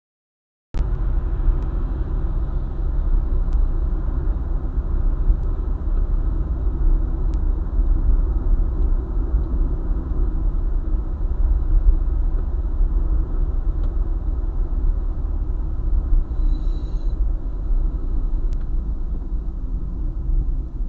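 Car travelling on a highway: a steady low rumble of engine and tyre noise that starts abruptly a moment in. A short high-pitched tone sounds briefly about three-quarters of the way through.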